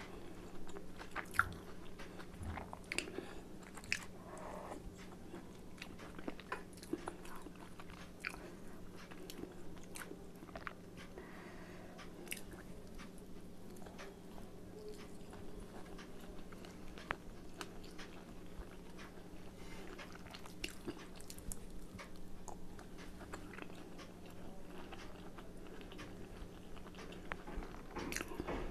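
Close-up chewing and biting of chicken momo dumplings, with many irregular short mouth clicks and smacks. A steady low hum runs underneath.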